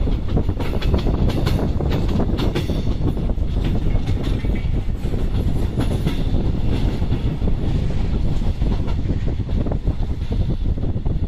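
Locomotive-hauled passenger train heard from inside the coach, rolling steadily: a continuous low rumble of wheels on rails with repeated clacks over track joints, most of them in the first few seconds and again midway.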